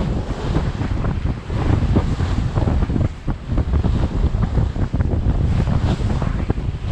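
Strong wind buffeting the microphone over the rush of water and waves along a Beneteau Oceanis 461 sailing yacht under way in a strong breeze; a steady, gusty rumble with no let-up.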